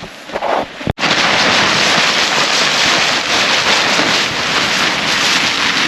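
Loud, steady rush of rain and wind hitting a tarp shelter close overhead, cutting in suddenly about a second in.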